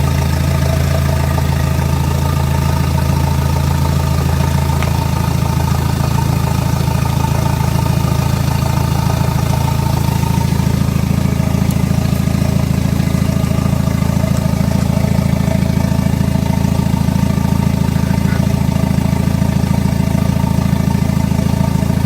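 Hyundai D4EA 2.0 CRDi four-cylinder diesel engine idling steadily. Its note changes slightly about five seconds in.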